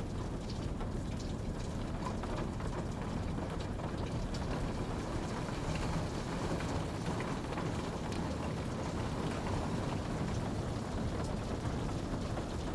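Steady rain falling: a dense, even rush with a heavy low end, dotted with scattered sharp drop ticks.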